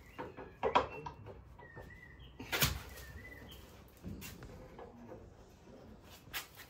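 A few sharp knocks, the loudest about two and a half seconds in, while a small bird gives a short whistled call that repeats every second or so.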